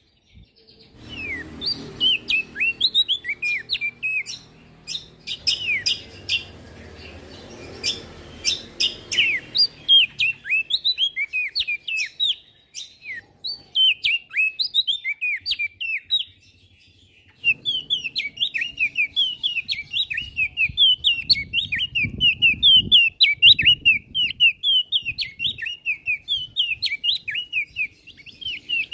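A prenjak daun singing a fast, chattering song of quick, sweeping high chirps, breaking off briefly twice partway through. Some clicks and a low background rumble sit under parts of the song.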